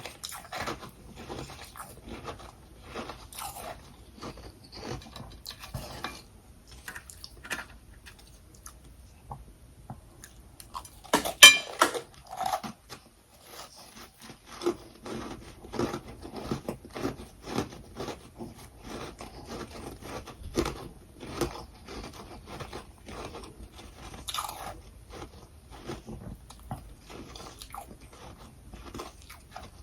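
Close-up chewing and crunching of humidifier-made freezer frost and crushed ice: rapid, irregular crunches, with one loud, hard bite about eleven seconds in.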